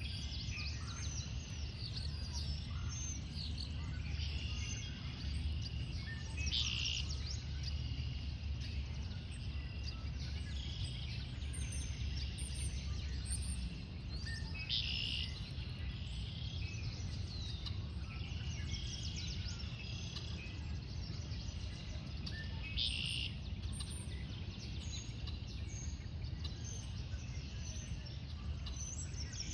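Wild songbirds calling and singing over a steady low rumble, with one louder song repeating three times, about eight seconds apart.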